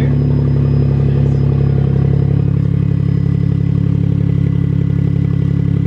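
Smart Fortwo's 1.0-litre three-cylinder engine idling steadily on an open header, with the exhaust removed, giving a loud, evenly pulsing exhaust note.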